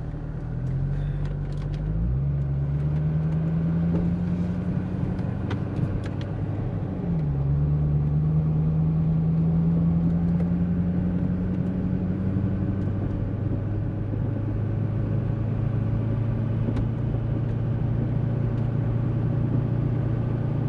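2008 Chevrolet Corvette C6's V8 engine accelerating from low speed. The revs climb, drop at a gear change about 7 seconds in, climb again, then settle into a steady cruise for the second half.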